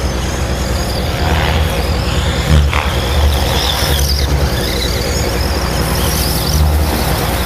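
Wind buffeting the microphone, with the high, wavering whine of a small radio-controlled model's motor changing pitch as it speeds up and slows.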